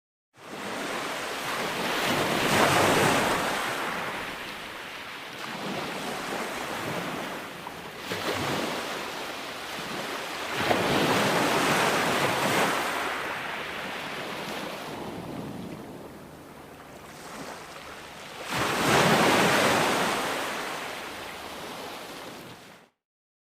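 Ocean waves breaking and washing in, a rushing noise that swells and dies back three times, about eight seconds apart. It starts and cuts off abruptly.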